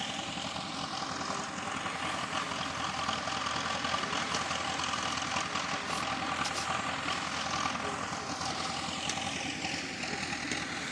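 Engine of heavy machinery running steadily, a constant noise with no clear revving.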